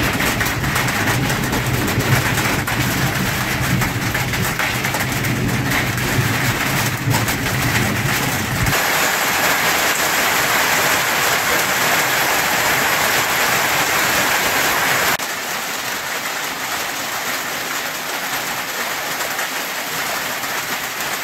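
Steady heavy rain, a dense even hiss. A low rumble under it stops abruptly about nine seconds in, and the rain drops a little in level about fifteen seconds in.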